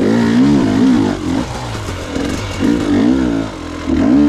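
Gas Gas EX 300 two-stroke single-cylinder enduro motorcycle engine revving up and down in short bursts of throttle, the pitch rising and falling several times.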